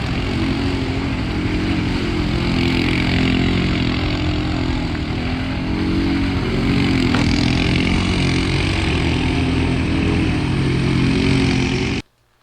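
Kawasaki Brute Force ATV's V-twin engine running steadily through a custom exhaust with an aftermarket carbon-fibre muffler, with slight rises and falls in revs. It cuts off abruptly near the end.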